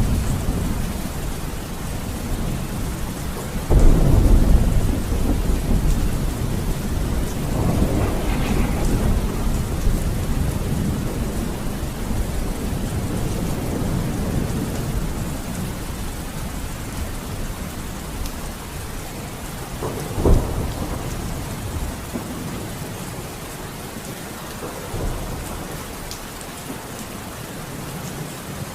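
Steady rain with rolling thunder. A loud clap about four seconds in rumbles on for several seconds, a sharper crack comes about twenty seconds in, and the rumbling dies down toward the end.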